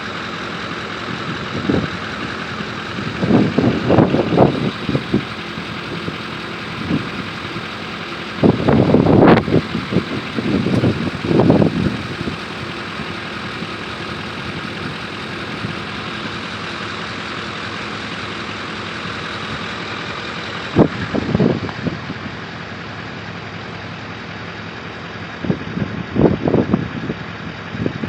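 Strong hurricane wind blowing steadily, with gusts buffeting the microphone in irregular low rumbling swells, the strongest a few seconds in, around nine to twelve seconds, and near the end.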